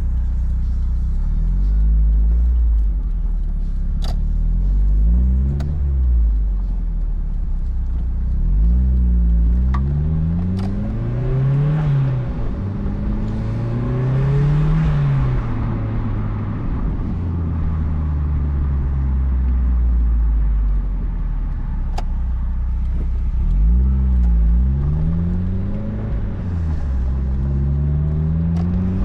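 Turbocharged four-cylinder engine and cat-back exhaust of a 2004 Mazdaspeed Miata, driving: the engine pitch rises under acceleration and falls back at each gear change, several times over, with a few sharp clicks.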